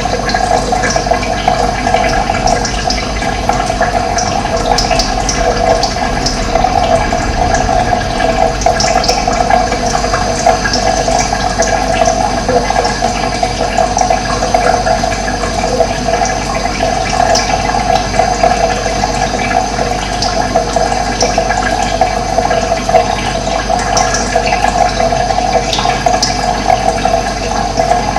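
Running water rushing steadily, with short, high bird chirps scattered over it.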